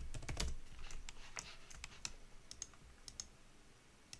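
Computer keyboard keystrokes and clicks, coming irregularly and most thickly in the first second, as keys are pressed for Blender shortcuts and values.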